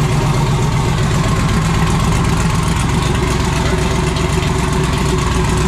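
Loud drag race car engine idling steadily.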